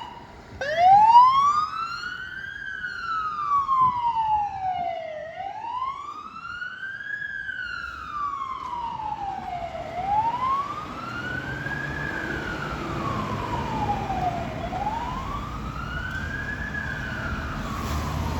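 Fire apparatus siren in wail mode, rising and falling slowly about four times, each sweep taking a few seconds. A low rumble grows under it in the second half.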